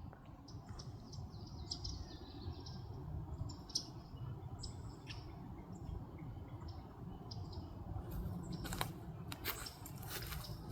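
Small birds chirping with short, high calls and a few falling whistles, over a low rumble. Several sharp clicks or taps come near the end.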